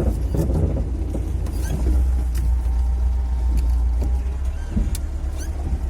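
Front suspension of a VAZ 2101–2107 Zhiguli creaking in a few short squeaks as the steering is turned at low speed, over the engine's steady idle. The owner takes the creak for worn ball joints.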